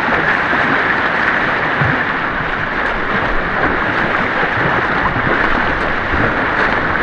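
Rushing white water of an artificial white-water course, a steady loud wash of rapids around the kayak.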